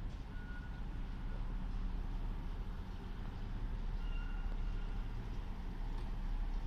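Railway construction machine's engine running steadily, with a warning beeper sounding short beeps three times.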